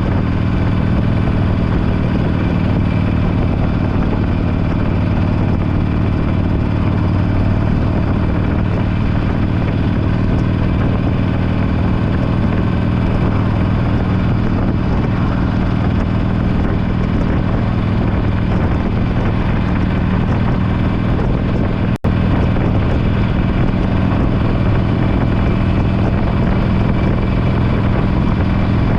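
Harley-Davidson Forty-Eight's air-cooled V-twin running steadily at an even engine speed through a Belles Performance aftermarket muffler. The sound drops out for an instant about three-quarters of the way through, then carries on unchanged.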